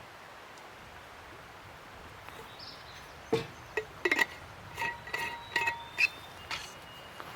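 A run of about ten sharp clinks and taps of cookware and utensils, starting about three seconds in and lasting some three seconds, some ringing briefly, over a steady background hiss.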